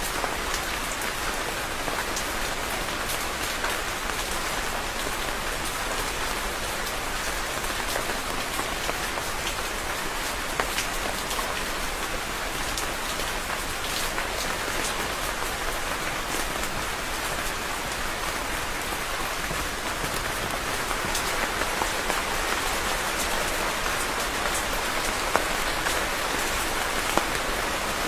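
Steady rain falling, an even hiss of rainfall dotted with the sharper ticks of individual drops striking a surface.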